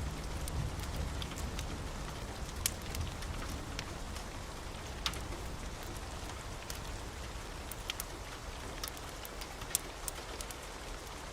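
Wood fire burning in a fireplace: a low steady rumble with irregular sharp crackles and pops, about one a second.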